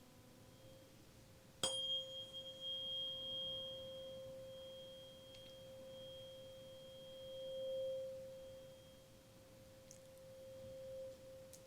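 A 528 Hz tuning fork, faintly ringing at first, then struck with a sharp click about a second and a half in. It rings as one steady pure tone with a thin high overtone, swells briefly around eight seconds in, and stops near the end.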